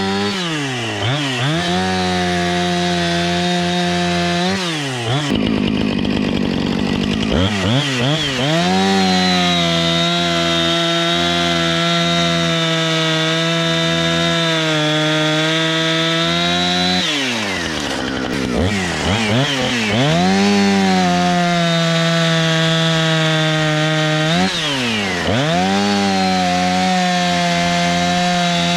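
Two-stroke gas chainsaw at full throttle cutting through wood with a dull chain, dropping to idle three times and revving back up into the cut.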